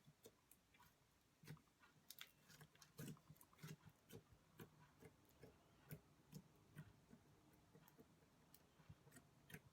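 Faint slime being squished and worked by hand, giving an irregular run of small sticky pops and clicks.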